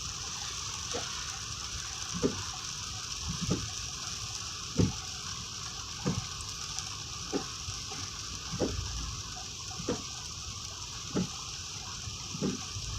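Steady rain falling, with a short low sound that drops in pitch repeating evenly about every second and a quarter.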